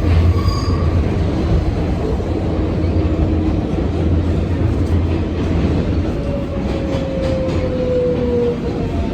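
New York City 7 subway train running, heard from inside the car: a steady, loud low rumble with thin wheel squeals. One squeal slides slightly down in pitch from about six seconds in.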